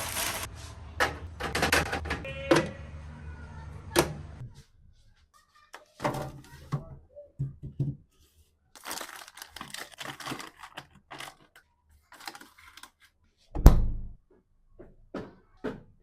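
Objects being handled: scattered knocks, clatter and rustling, with one heavy thud a little over thirteen seconds in. A low steady hum runs under the first four seconds or so, then stops.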